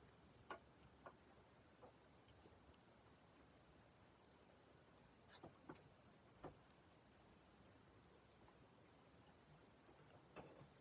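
Crickets trilling steadily at night, a continuous high, thin chorus, with a few faint scattered soft knocks in the background.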